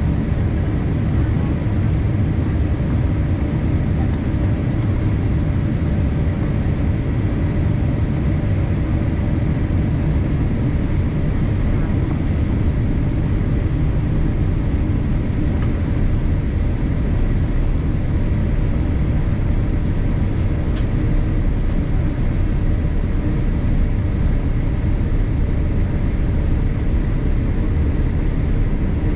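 Steady cabin noise inside a Boeing 787-8 in flight: an even rush of engine and airflow noise, heaviest in the low end, with a faint constant whine above it. A single short click about twenty seconds in.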